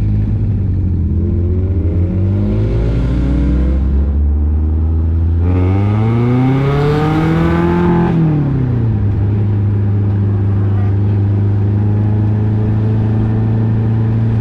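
Car engine pulling away: its pitch rises through one gear, breaks at a shift about four seconds in, rises again through the next gear, falls as the throttle comes off about eight seconds in, then settles into a steady drone at cruising speed.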